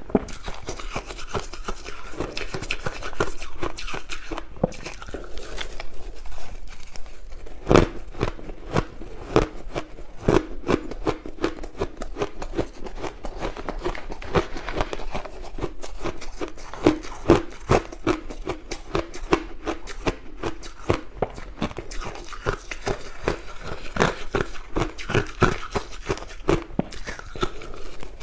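Crushed ice being bitten and chewed: continuous irregular crunching and crackling, many sharp cracks a second, with some louder bites scattered through.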